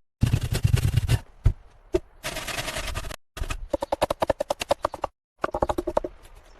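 Quick runs of sharp knocks, several a second, some with a short ring, broken twice by sudden silences.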